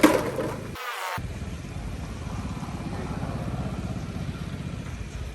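A loud, sudden burst right at the start, then a motor running steadily with a low, even pulse.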